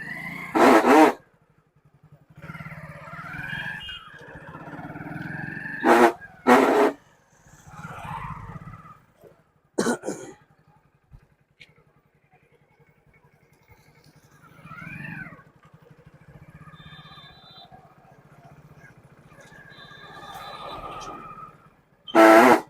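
Motorcycle rear drum brake squealing each time the brake is applied while riding, over the engine running steadily. It gives several short loud chirps and some longer wavering squeals. The squeal comes from the brake shoes slipping on a glazed, dusty brake drum.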